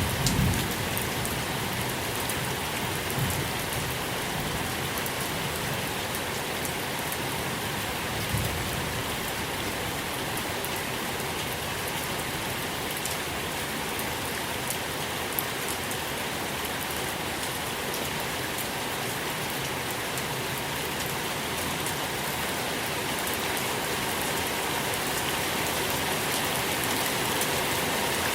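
Steady rain falling, an even hiss of drops on surfaces. A low thunder rumble dies away in the first moment.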